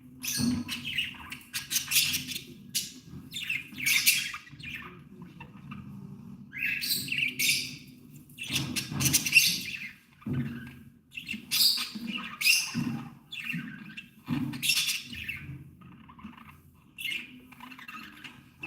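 Budgerigars chirping and chattering in quick, irregular bursts of high calls.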